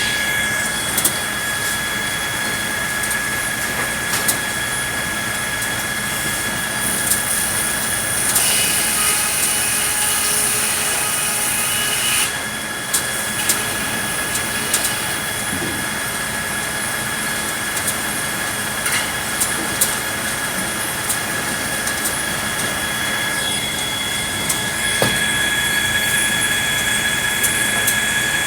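Sawmill saw cutting red pine, running with a steady high whine, with the cutting noise growing harsher for a few seconds partway through and scattered knocks of wood and machinery.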